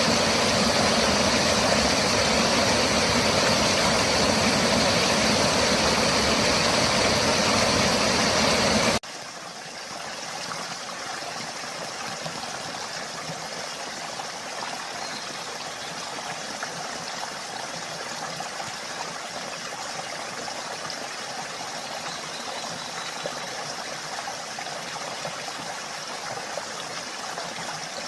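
Mountain stream water rushing over rocks in a steady roar, loud and close for about nine seconds, then cutting abruptly to a softer, more even rush.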